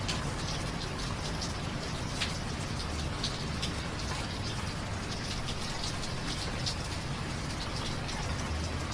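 Steady rain with close, distinct drops ticking on hard surfaces.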